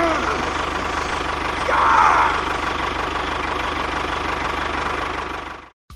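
An engine running steadily at idle with a fast, even low pulsing, and a brief wavering higher sound about two seconds in. It cuts off suddenly near the end.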